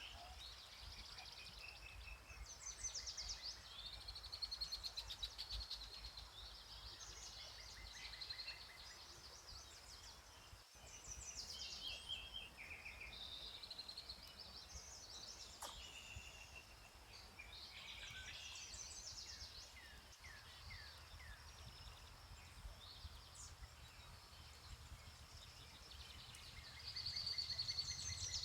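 Several songbirds singing and calling in overlapping short, high phrases and trills, over a faint low rumble. The loudest phrase comes near the end.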